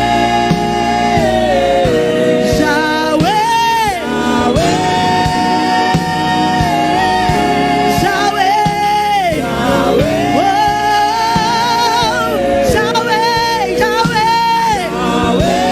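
Gospel worship singing: choir voices hold long notes for several seconds and glide between pitches, over a live band with a steady beat.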